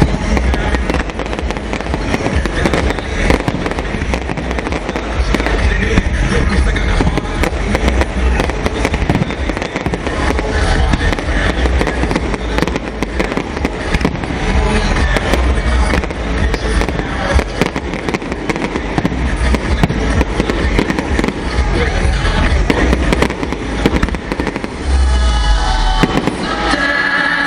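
Fireworks display: a dense, continuous run of bangs and crackling over a deep rumble, with music playing alongside.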